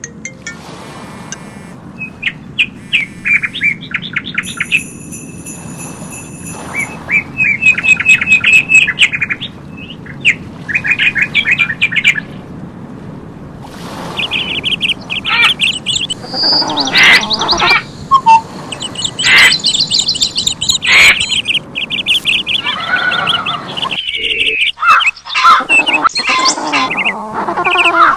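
Songbirds chirping in repeated rapid trills, several calls overlapping and growing busier about halfway through, over a steady low background rush.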